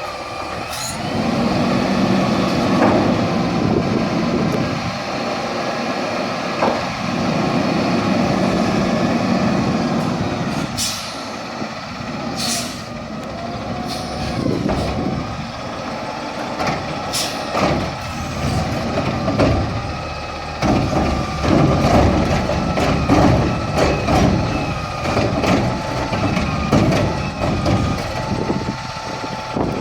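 Garbage truck working: its engine runs and repeatedly swells and dips in pitch, with short sharp hisses of air about 11 and 12 seconds in, and scattered knocks.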